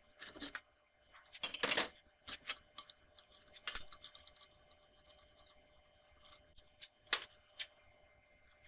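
Light metal clinks and clatters as small steel parts are handled and set against each other, with a longer rattling clatter about one and a half seconds in and a sharp clink about seven seconds in, over a faint steady hum.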